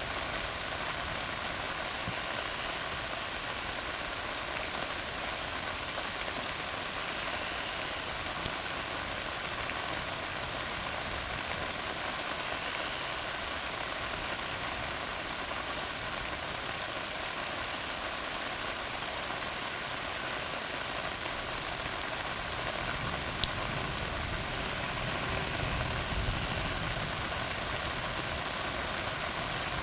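Steady rain falling on a tar road: an even hiss, with occasional sharper drop ticks. A low rumble swells in over the last several seconds.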